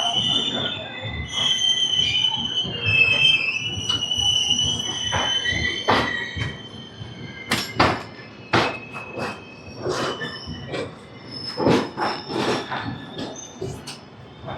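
Express train's wheels squealing on the rails as the coaches move off slowly, with high wavering tones for the first several seconds. These give way to a string of irregular sharp clanks and clacks from the wheels and couplings.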